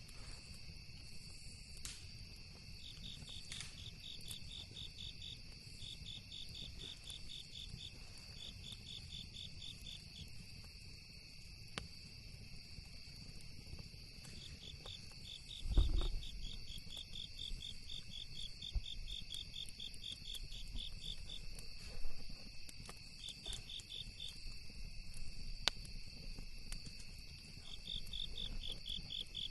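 Crickets chirping in repeated trains of rapid pulses over a steady high insect drone, with scattered sharp crackles from a campfire. A single low thump comes about halfway through.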